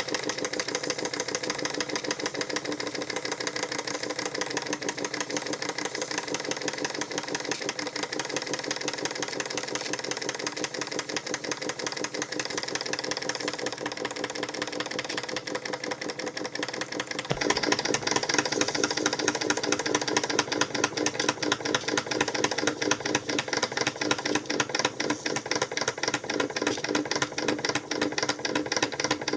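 Model marine steam engine running steadily with a fast, even beat of its strokes and a light mechanical rattle; it gets louder a little past halfway through.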